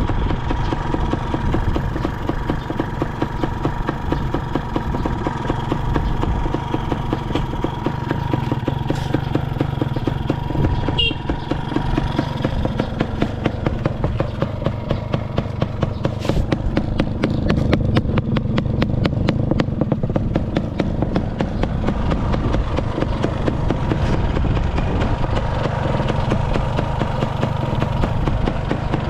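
Kawasaki KSR80's 80 cc two-stroke single running through an RSV expansion chamber, idling with a brief rise in revs about midway. The engine runs without abnormal noise, as the seller states.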